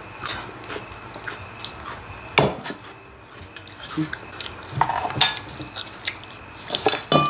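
Metal serving utensils clinking and scraping against stainless-steel bowls and a cooking pot as food is dished out, with irregular clicks, one loud clank about two and a half seconds in, and a run of clinks near the end.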